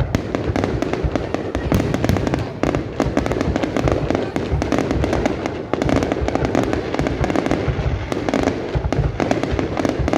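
Fireworks display: a continuous, rapid barrage of bangs and crackling pops, with no pause.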